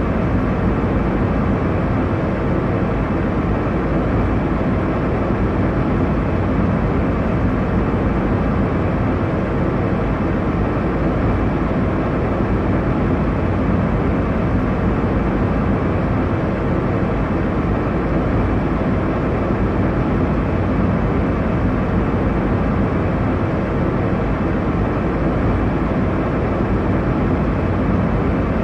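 Airliner cabin noise in cruise: a steady low rumble and hiss of engine and airflow, unchanging throughout.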